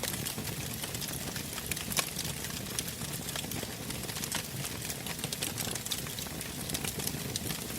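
Bonfire burning, its wood crackling with many small snaps and one louder pop about two seconds in.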